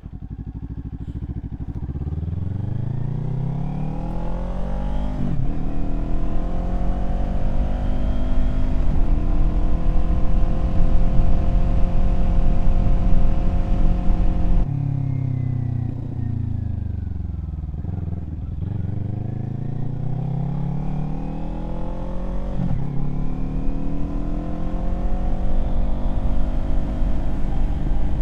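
Kawasaki Z400's parallel-twin engine on the move: it accelerates up through the gears with shifts about five and nine seconds in, then the throttle closes about halfway through and the revs fall as it slows. It then pulls away again, rising in pitch with another upshift near the end.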